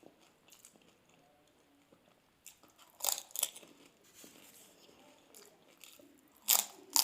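Crisp fuchka (pani puri) shells crunching as they are bitten, with two loud crunches about three seconds in and two more near the end, and quieter chewing between.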